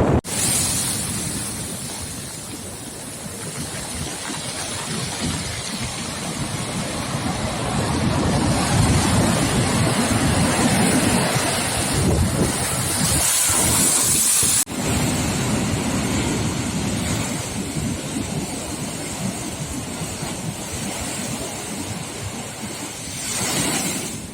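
Storm surf breaking heavily on the shore in gale-force wind, with wind buffeting the microphone. The roar swells and eases, loudest around the middle, and drops out abruptly for an instant about two-thirds of the way through.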